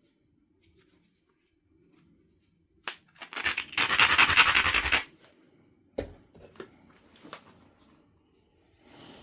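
Stone abrader scraped hard along the edge of a Knife River flint biface for about two seconds to grind the platforms, starting and ending with a sharp click, followed by a few lighter ticks of stone on stone.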